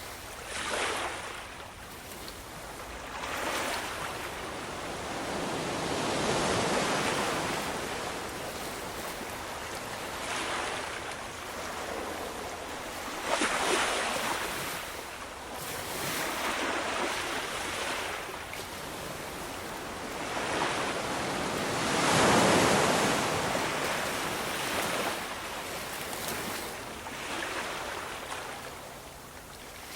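Ocean waves breaking and washing up on a shore, the surf swelling and ebbing every few seconds, with the largest wave about three-quarters of the way through.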